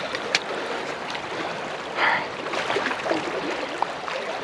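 Rushing river current, a steady water noise, with scattered small clicks and a short louder burst about two seconds in.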